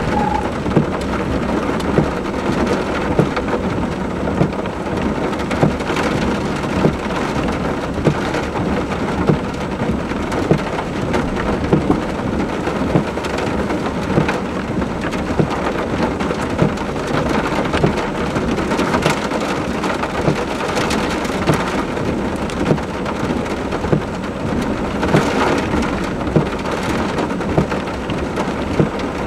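Heavy rain falling in a steady hiss, with frequent sharp drop impacts close by.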